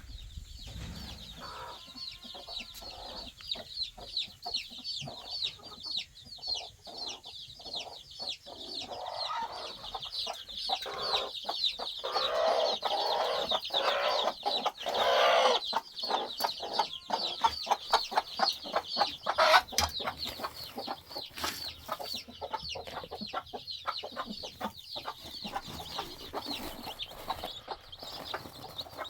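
Chickens clucking, over a constant high cheeping and scattered sharp taps. The clucking is loudest around the middle.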